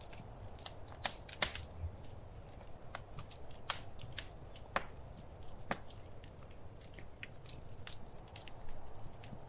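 Wood fire crackling in a fireplace: irregular sharp pops and snaps, a few louder ones about 1.5, 3.7 and 4.8 seconds in, over a low steady rumble.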